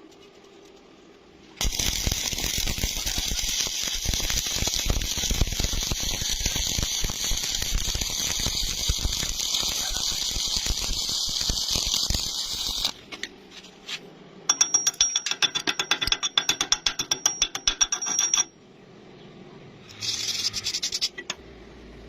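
Electric arc welding crackling steadily for about eleven seconds, then a fast run of sharp metallic clicks with a high ring for about four seconds, and a brief hiss near the end.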